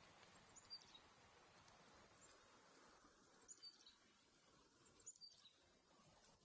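Faint small-bird calls: three short high chirps, each dropping in pitch, spaced a couple of seconds apart over a faint steady hiss.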